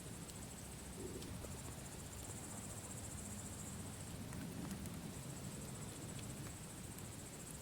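Campfire burning with a low rumble and scattered faint crackles, under a steady high trill of crickets.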